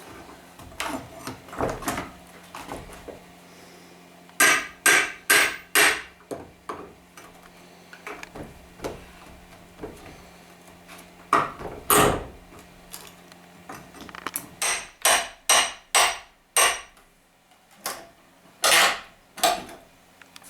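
Hammer blows in short runs of two to six sharp strikes, with quieter knocks and tapping between them.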